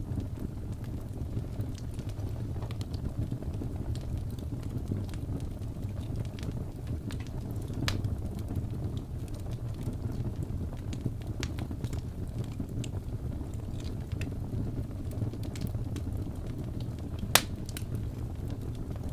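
Wood fire crackling in a fireplace: a steady low rumble of burning with scattered small snaps, and one louder pop near the end.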